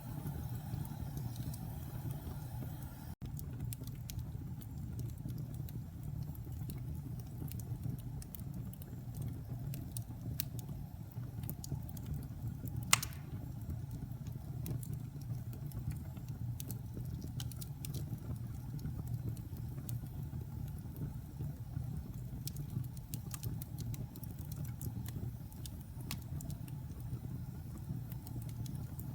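Fire burning in a fireplace: a steady low rumble of flames with scattered small crackles, and one loud pop about 13 seconds in.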